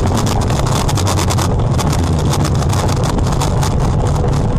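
Car driving: steady loud engine and road rumble with constant irregular crackling.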